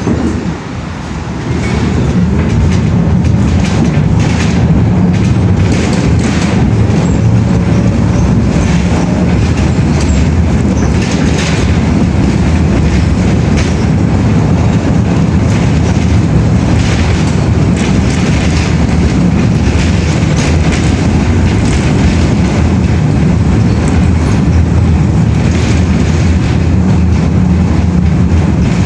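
A train running: a steady low rumble with frequent clacks, growing louder about two seconds in.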